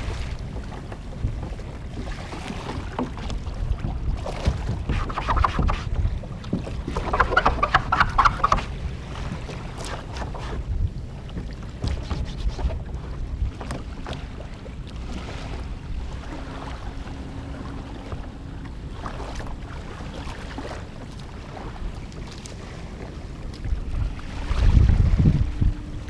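Wind buffeting the microphone aboard a kayak on the water, with scattered small knocks and a louder rushing stretch about six to eight seconds in. A faint steady hum comes in about halfway, and a loud low surge of wind near the end.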